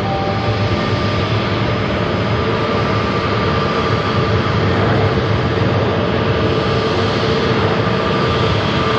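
Jet engines of an Airbus A321neo running, a loud steady rushing noise with high, steady whining tones through it.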